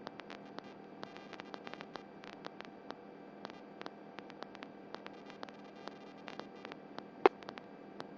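Faint electrical hum and hiss on the radio audio channel between transmissions, with many small irregular static clicks and one louder click about seven seconds in.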